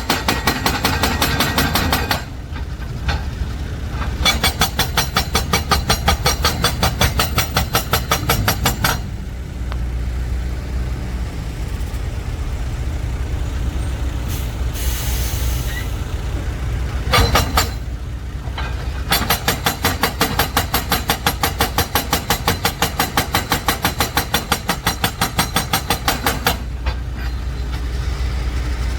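Heavy diesel dump truck running with a steady low rumble, a rapid rhythmic clatter coming and going in long stretches. About halfway through there is a short hiss of released air, like an air brake.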